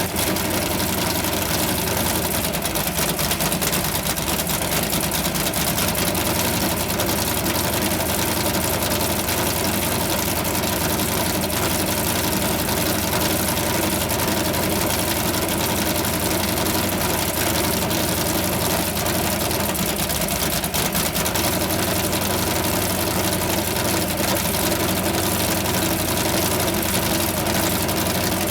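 McLaren M1B's Ford V8 racing engine idling steadily, with no revs.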